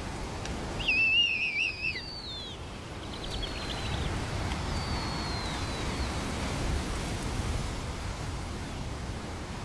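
Bird calls: a loud wavering, whistled call about a second in, then a few faint chirps and a thin falling whistle, over a steady low rumble of wind.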